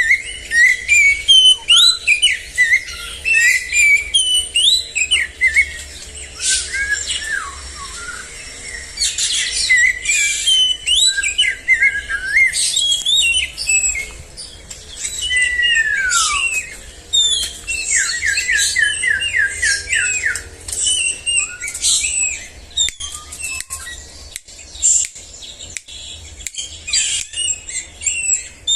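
Songbirds singing a fast, varied stream of chirps, whistles and short glides, with a quick run of evenly repeated notes about two thirds of the way through.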